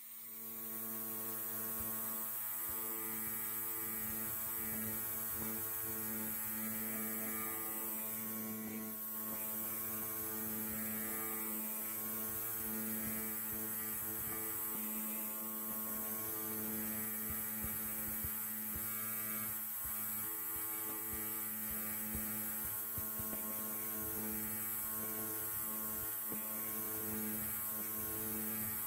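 Electric hair clipper running with a steady buzz, fading in over about the first second and then holding even.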